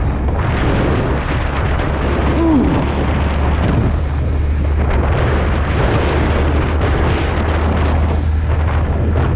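Suzuki motorcycle riding at speed: the engine runs steadily under heavy wind noise buffeting the camera microphone.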